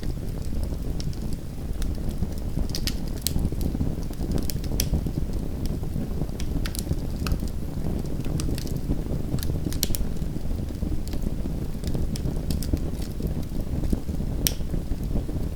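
Small wood fire in a fireplace crackling, with irregular sharp pops and snaps over a steady low rumble.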